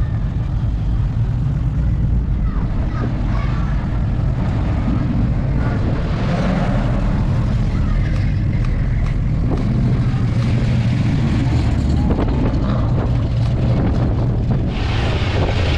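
Engines of American classic cars rumbling steadily as they roll past in a slow procession, with a louder surge near the end.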